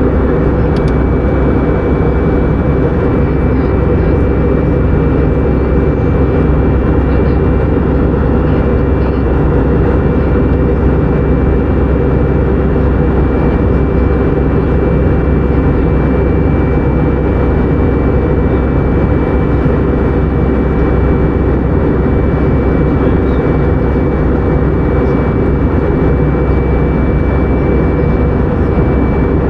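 Airbus A319 jet airliner in flight: a steady, unchanging drone of engines and airflow, with a thin high whine held on top.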